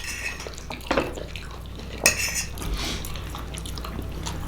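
Cutlery clinking and scraping on plates, with three sharp taps among softer scraping.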